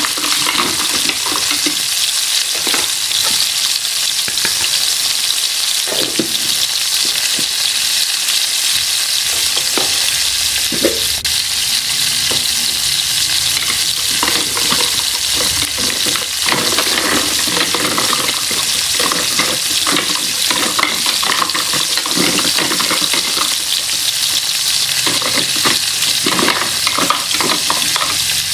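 Food sizzling as it fries: a steady hiss with scattered light knocks and clicks.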